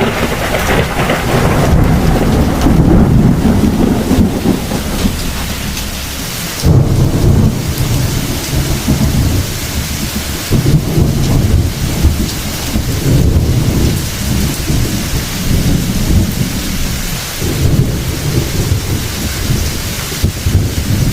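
Heavy thunderstorm: steady rain with thunder rumbling low and rolling. A sudden thunderclap comes about six and a half seconds in and trails off into long rumbles.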